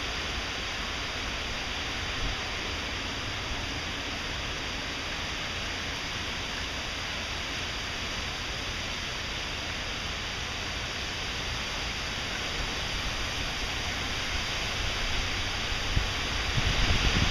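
Heavy hurricane rain falling steadily, a dense even hiss. Near the end it grows louder as a gust of wind begins to rumble on the microphone.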